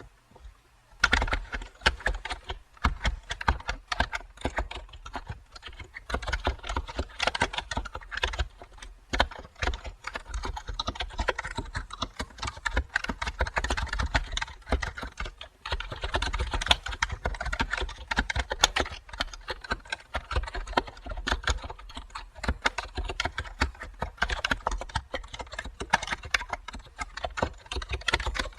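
Typing on a computer keyboard: a steady stream of key clicks that starts about a second in, with a couple of brief pauses.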